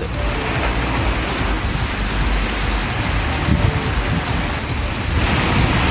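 Heavy rain pouring onto a paved road and puddles: a dense, steady hiss with a low rumble underneath, getting brighter near the end.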